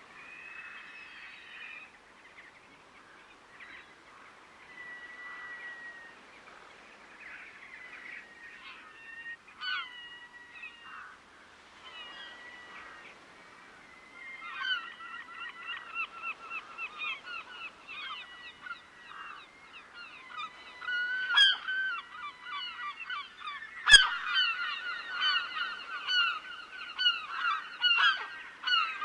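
A flock of geese honking: scattered bird calls at first, then from about halfway a dense run of rapid honks that grows louder. A few sharp clicks cut through, the loudest in the last few seconds.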